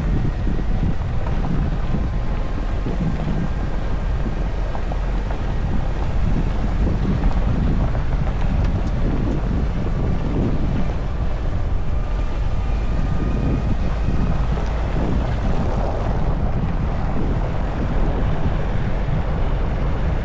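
Nissan Navara pickup driving downhill: a steady low rumble of engine and road noise with wind buffeting the microphone, and a faint high whine drifting slowly in pitch.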